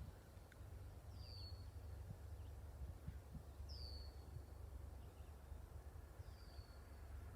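Wind rumbling on the microphone, with a bird repeating a short, high, downward-sliding call three times, about every two and a half seconds.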